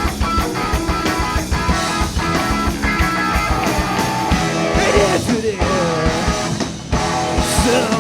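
Live rock band playing an instrumental passage: electric guitar over a steady drum beat, loud and unbroken, with a brief sliding melodic line about halfway through.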